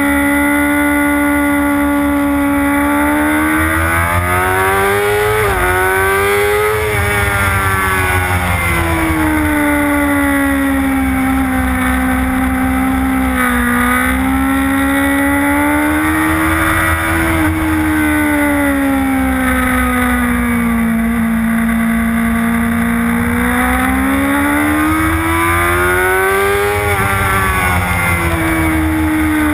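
Motorcycle engine heard from on board at high revs, its pitch climbing under acceleration and sinking as the throttle is rolled off for corners. Two quick upshifts drop the pitch sharply, one about five seconds in and one near the end.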